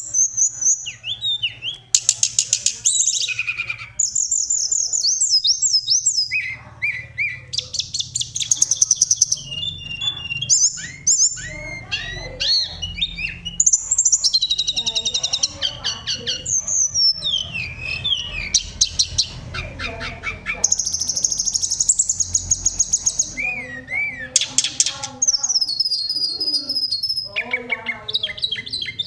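A tledekan songbird singing continuously in long, varied rolling phrases of rapid trills and clear, flute-like whistled notes, with only brief pauses between phrases.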